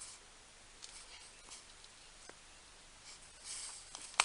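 Faint workshop handling noises: a few light clicks, a brief rustle near the end, then one sharp click.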